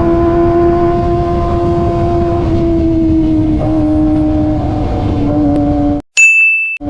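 Kawasaki ZX-25R's inline-four with an aftermarket racing exhaust, held at steady high revs while cruising, its pitch easing slightly lower through the middle, over a rush of wind. Near the end the sound cuts out briefly and a loud high electronic beep sounds for under a second.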